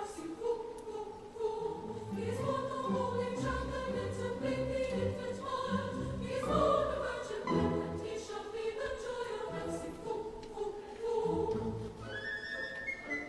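Vocal ensemble choir singing in several parts. Near the end a high line climbs in steps.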